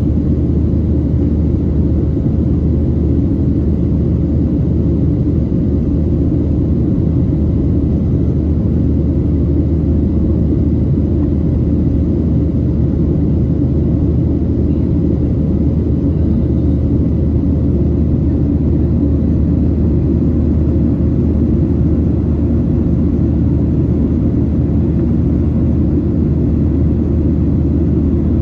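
Boeing 737-800 cabin noise in flight: a steady, even drone of the CFM56 jet engines and airflow, heard from inside the passenger cabin, with a faint steady hum above it.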